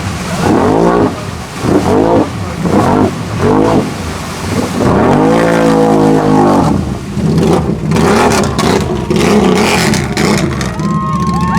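Off-road vehicle engine revving hard in quick up-and-down bursts, then held high for about a second and a half before revving unevenly again.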